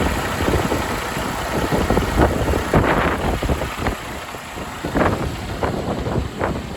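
Freightliner Cascadia semi-truck's diesel engine idling, with uneven surges of noise over the steady idle.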